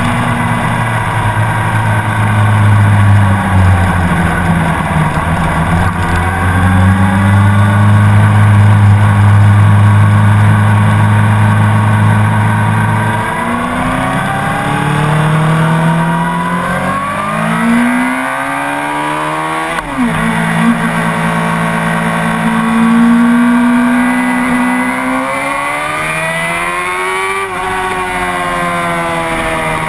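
Honda CBR600RR sport bike's inline-four engine running hard on a race track. Its pitch holds steady at first, then climbs, drops sharply about twenty seconds in and climbs again, dropping once more near the end, as it revs up and shifts.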